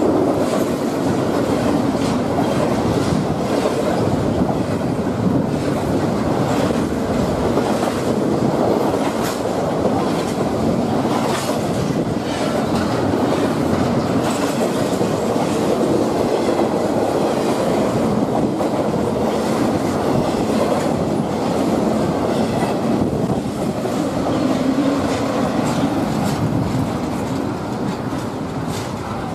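Double-stack intermodal freight train's well cars rolling past close by: a steady rumble of steel wheels on rail with scattered clicks, easing off slightly near the end.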